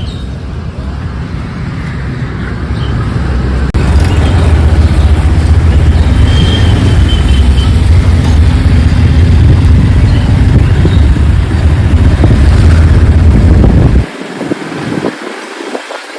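Motorcycle riding in city traffic, recorded from the bike: a loud low rumble of engine, road and wind. It grows louder about four seconds in and holds steady, then the low rumble cuts away suddenly near the end.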